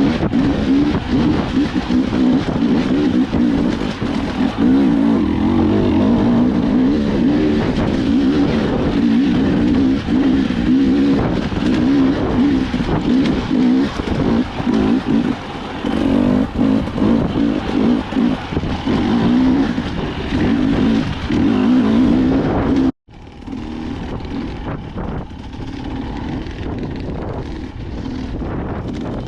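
Dirt bike engine running under load while riding, its pitch rising and falling with the throttle. About three-quarters of the way through it cuts off abruptly, and a quieter, steadier engine sound with wind on the microphone follows.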